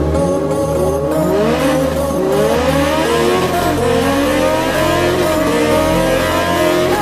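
Honda CBR650F inline-four engine accelerating hard. Its pitch climbs again and again, dropping back between climbs as it shifts up through the gears.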